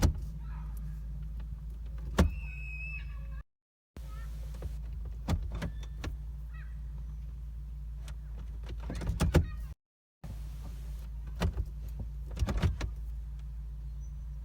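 Jeep's automatic transmission shift lever being worked through park, reverse, neutral and drive, with scattered clicks and clunks over a steady low hum from the vehicle, its engine not running.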